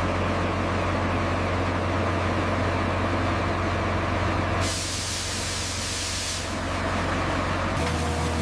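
Heavy asphalt paving machinery running steadily: a low engine hum under a broad hiss. The sound shifts abruptly about halfway through and again near the end.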